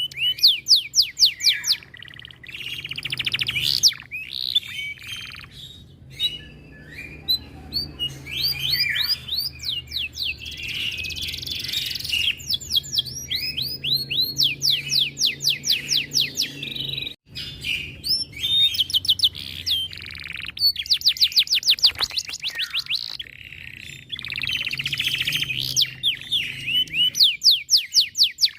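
Domestic canary singing: long, fast rolling trills of rapidly repeated sweeping high notes in runs of a second or two, broken by short pauses.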